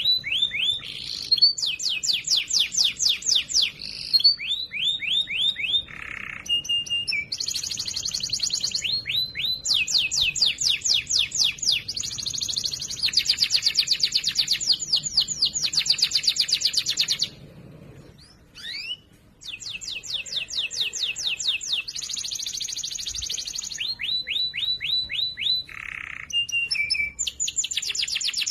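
Domestic canary singing loudly and clearly: rapid trills of quickly repeated high notes, phrase after phrase, with a brief break a little past halfway.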